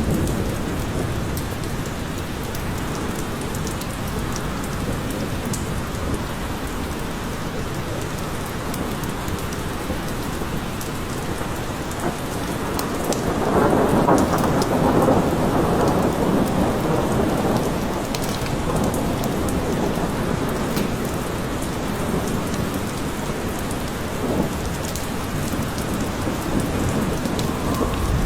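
Steady forest rain falling, with a roll of thunder swelling up about halfway through and fading over a few seconds.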